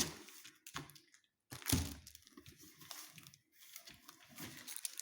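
Rustling and crinkling of parcel packaging being handled, with scattered soft clicks and one louder short sound a little under two seconds in.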